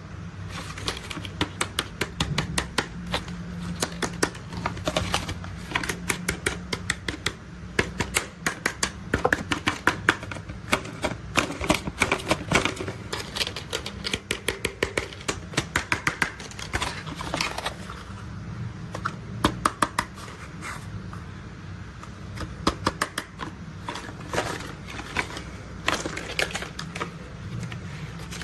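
Plastic toy construction vehicles being handled and played with: many irregular clicks and rattles in quick clusters, over a steady low rumble.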